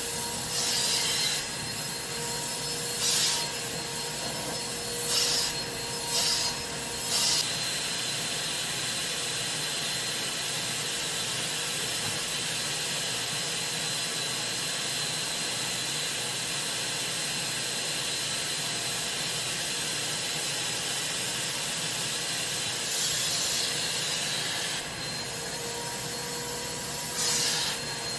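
Carpet cleaning extraction machine running steadily with a constant whine. Several brief, louder hissing strokes come in the first few seconds and again near the end, as its cleaning tool is passed over fabric.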